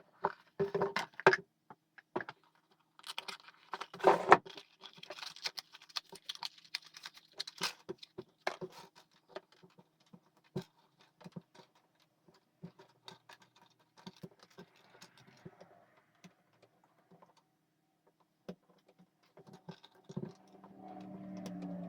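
Irregular light clicks, taps and scratching of small hard objects being moved about, busiest in the first eight seconds and sparser after. A low steady hum comes in near the end.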